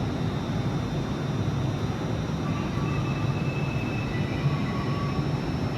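Train at a station platform: a steady low rumble with a faint high whine, and faint extra tones joining about halfway through.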